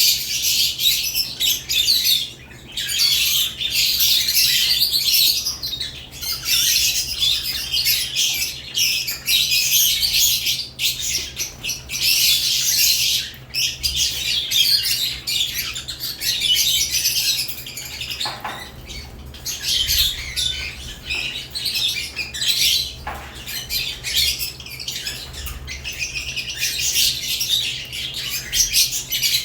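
Caged lovebirds chattering continuously, a dense mix of shrill high-pitched chirps and squawks with only brief lulls.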